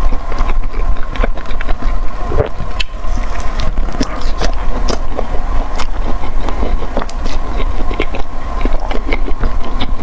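Close-miked eating sounds: chewing with many quick wet mouth clicks and crackles, over a steady low hum.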